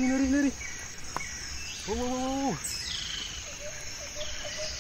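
Birds chirping outdoors, with short repeated chirps in the second half. A drawn-out voiced call sounds at the start and again, shorter and arched, about two seconds in.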